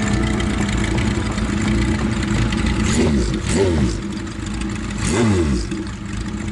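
Motorcycle engine idling with three quick throttle blips, each revving up and dropping back, about halfway through and again near the end.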